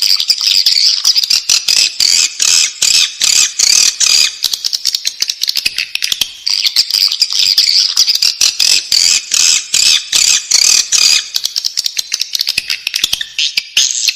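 Swiftlet chicks in the nest, chirping and twittering without a break in rapid, high, crowded calls mixed with quick clicks.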